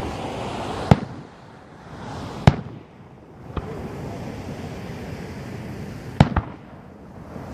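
Professional display fireworks going off: about six sharp bangs of bursting shells, one every second or two, two in quick succession near the end, over a steady hiss.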